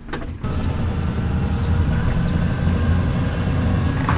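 A Pearson 35 sailboat's electric inboard motor running under load, cutting in suddenly about half a second in: a steady low rumble with a faint steady whine over it.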